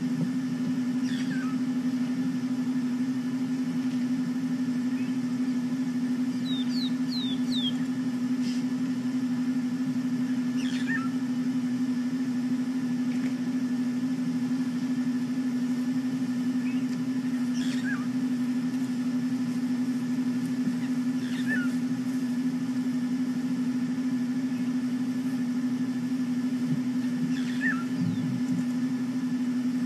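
Steady low hum of an idling safari vehicle's engine, with short falling bird chirps every few seconds, including a quick run of four about seven seconds in.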